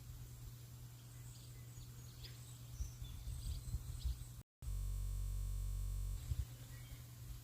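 Small birds chirping faintly over a steady hiss with a low rumble. About halfway through, the sound drops out for an instant and is replaced by about a second and a half of a flat, steady hum before the hiss and rumble return.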